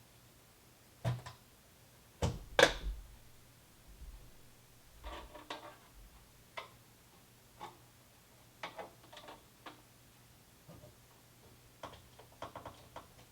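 Irregular clicks and knocks, a few of them louder about two and a half seconds in and several small clicks near the end, over a faint steady low hum.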